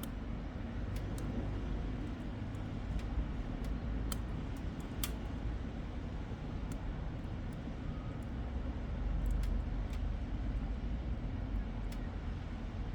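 Wood fire burning in a small wood stove, crackling with scattered sharp pops over a steady low rumble.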